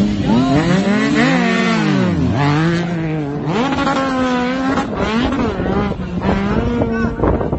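Vehicle engine revving hard, its pitch climbing and dropping several times, then holding fairly steady for a while from about three and a half seconds in.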